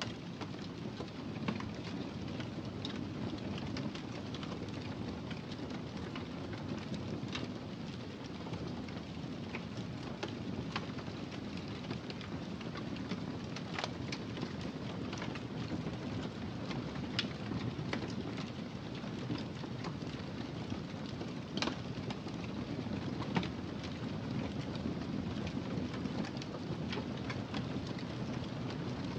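Wood fire crackling in a fireplace: a steady low rush from the flames with scattered sharp pops and snaps, one louder pop about three quarters of the way in.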